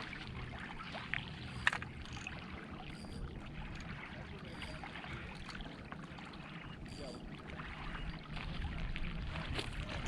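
Steady outdoor background noise with a low rumble, broken by a few faint clicks and one sharp click just under two seconds in.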